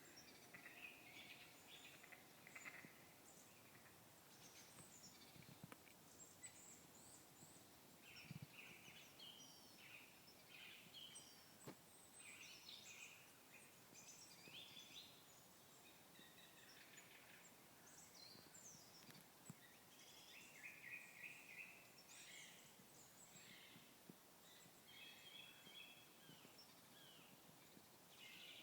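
Faint chorus of several birds chirping and trilling, many short calls overlapping, over a steady background hiss.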